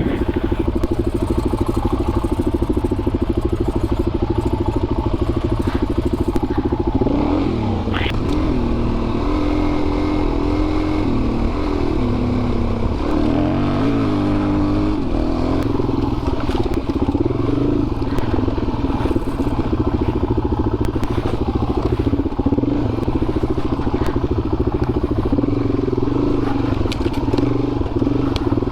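Motorcycle engine running continuously, with its pitch rising and falling a number of times from about 7 to 15 seconds in as the bike is ridden off, then running steadily again.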